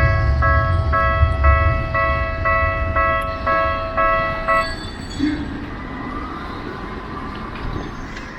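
Japanese railway level-crossing warning bell ringing in an even clang, about two and a half strikes a second, over the low rumble of a passing tram. The bell stops about four and a half seconds in, and the rumble fades with it.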